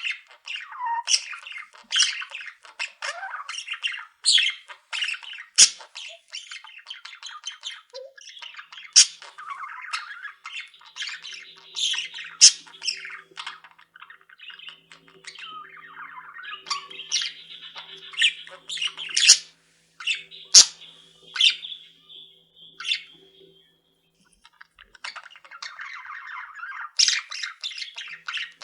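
Pet budgerigars chattering continuously, with frequent sharp squawks and chirps cutting through, and a brief lull a few seconds before the end.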